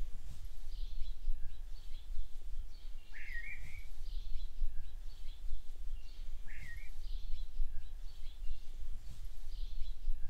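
Birds calling: short high chirps about once a second, with two louder warbling calls about three seconds and six and a half seconds in, over a steady low rumble.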